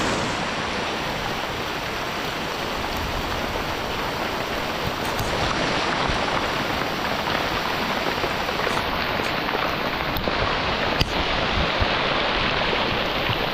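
Steady water noise, with one sharp click about eleven seconds in.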